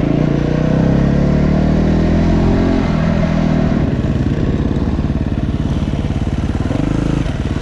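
Dirt bike engine running under way, its pitch climbing over the first couple of seconds, falling about three seconds in, then holding steady with a brief dip near the end.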